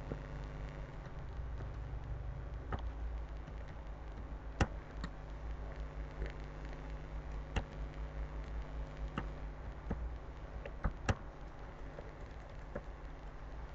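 Sparse, irregular clicks from working at a computer, about a dozen in all, over a steady low hum.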